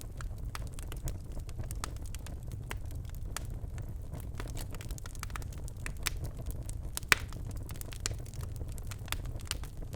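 Birchwood fire burning in a fireplace: irregular sharp crackles and pops over a steady low rumble of flame, with one louder pop a little after seven seconds.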